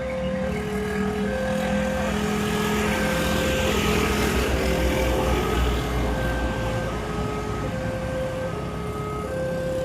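Level-crossing alarm sounding a steady two-tone alternation, switching tone about every 0.7 s, while a train passes. The train's rumble and rushing noise swell in the middle and ease off toward the end.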